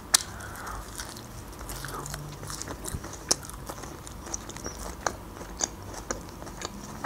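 A person chewing a sprig of fresh herbs, with irregular small crunches and clicks from the mouth.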